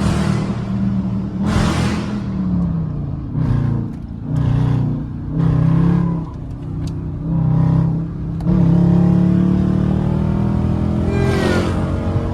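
Dodge Charger R/T's V8 engine and exhaust running while driving, the engine note swelling and easing several times as the throttle changes. Several brief whooshes of air or passing traffic come over it.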